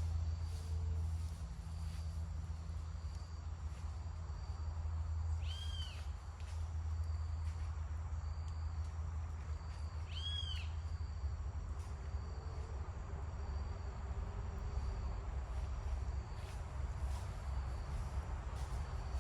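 Woodland ambience: insects trill in short repeated pulses and a bird gives two arching whistled calls, about six and ten seconds in, over a steady low rumble.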